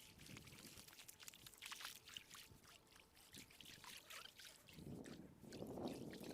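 Faint water trickling and splashing with many small ticks as a hooked fish is played in close to the bank. A louder rushing splash comes near the end.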